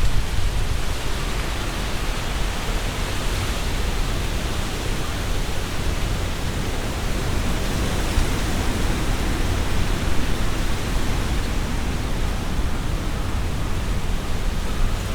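Strong wind blowing through trees, a steady rushing rustle of leaves, with low wind rumble on the binaural microphones.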